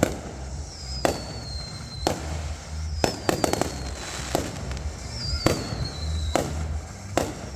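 Fireworks going off in quick succession: sharp bangs and crackling pops, with four high whistles that each slide down in pitch over about a second before more bangs.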